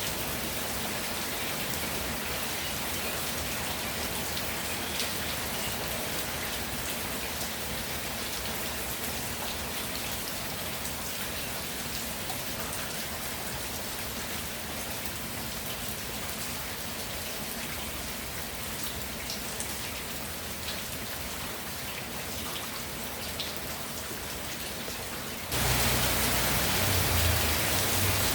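Steady rainfall with scattered individual drops ticking. About 25 seconds in it turns abruptly louder and fuller, as if heavier rain.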